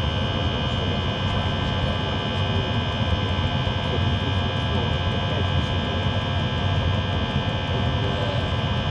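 Diesel heater running with a steady jet-engine-like roar and a high whine of several steady tones over a low rumble. The noise is put down to a bearing.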